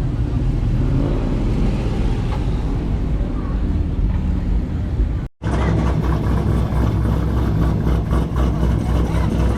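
Car engine running with a low, steady rumble. The sound cuts out completely for a split second about five seconds in, then an engine is heard running again.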